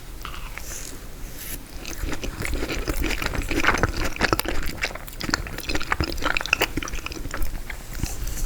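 A person biting and chewing frozen tiramisu close to the microphone, with many crisp crunching clicks that come thickest from about three seconds in.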